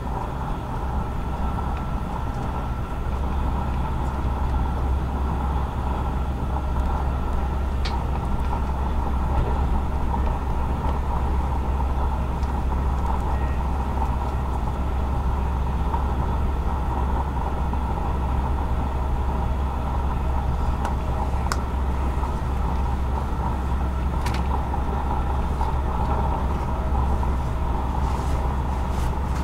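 SJ InterCity passenger train running steadily at speed, a continuous rumble of wheels on rail heard inside the carriage, with a few brief clicks.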